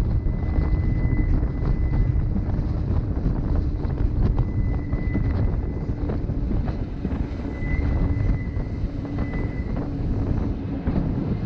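Rhaetian Railway narrow-gauge passenger train running: a steady low rumble of wheels on track with scattered light clicks, and a faint high tone that comes and goes.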